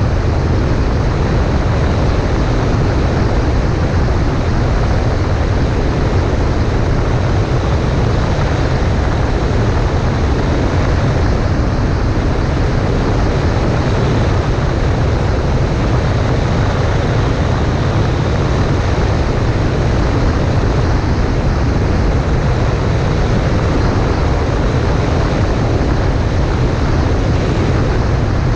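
Cessna 140A light aircraft's engine and propeller running steadily with the rush of air, a loud, even drone with no changes.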